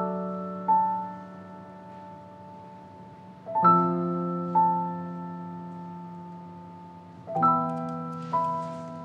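Slow background piano music: a held chord is struck three times, about every three and a half seconds, and each is followed by a single higher note that rings on and fades.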